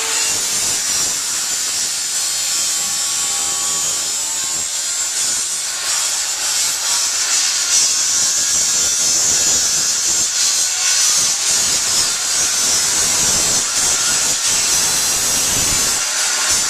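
Electric angle grinder running continuously, cutting or grinding with a steady high-pitched whine and rasp.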